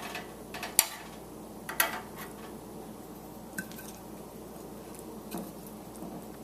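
Light clicks and taps of kitchen utensils and dishes while sesame seeds are put on brushed chicken pieces, a few short sharp ones spaced out over a faint steady background hiss, the loudest a little under a second in.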